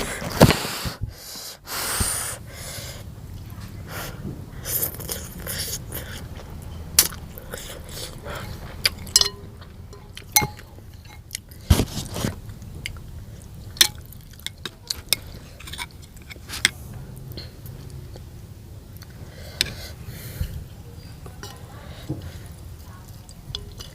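Close-miked eating of noodle soup: chewing and wet mouth sounds, with many sharp smacks and clicks at irregular intervals. The louder bursts come about half a second in and again around twelve seconds.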